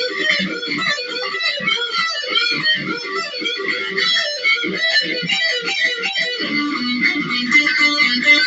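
Electric guitar shredding: a fast, unbroken stream of rapid lead notes and runs.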